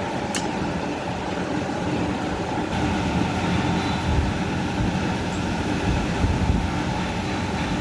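Marine diesel engine running at a steady speed, a low, rough rumble, with one sharp metallic click about half a second in.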